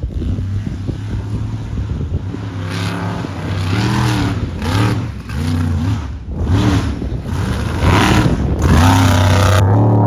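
Monster truck engine revving hard again and again, its pitch rising and falling about once a second, then held high and loudest near the end.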